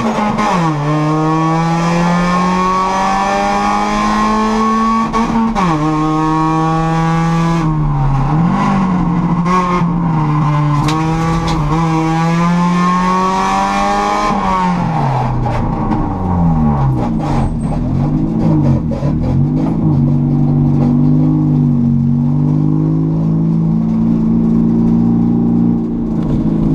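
Race car engine heard from inside the stripped cabin, revving hard up through the gears with sudden drops in pitch at each upshift. About halfway through, the revs fall away as it lifts off, and it runs on at low, wavering revs.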